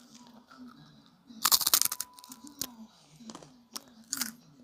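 A sugar-coated twisted doughnut (kkwabaegi) crunching loudly in one short crisp crackle about a second and a half in, followed by a few soft clicks.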